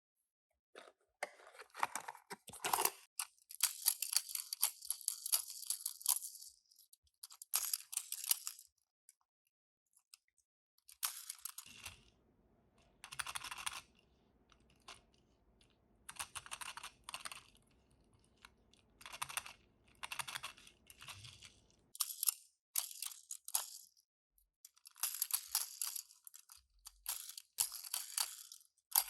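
Toy packaging crinkling and tearing in irregular bursts as small toy cars are unboxed, with sharp clicks and crackles between the longer crinkles.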